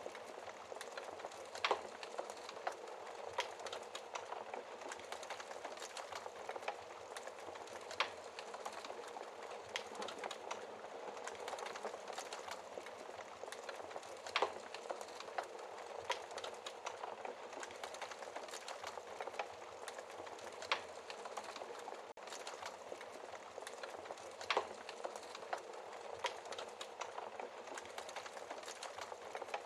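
Wood fire crackling in a fireplace: a soft steady hiss with frequent small crackles and a sharper, louder pop every few seconds.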